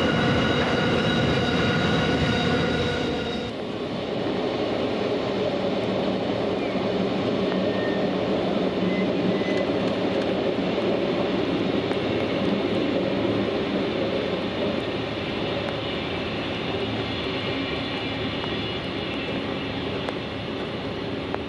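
A freight train of empty container flat wagons rolls past with a steady high-pitched ringing over the rumble of its wheels. About three and a half seconds in, the sound changes abruptly to the running rumble of an electric suburban passenger train pulling away from the platform, easing slightly as it draws off.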